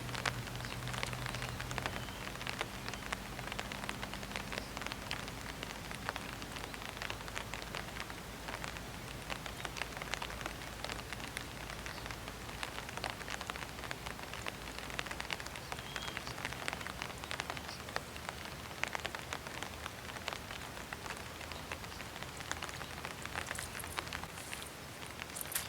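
Light drizzle falling steadily: a dense, even scatter of small raindrop ticks.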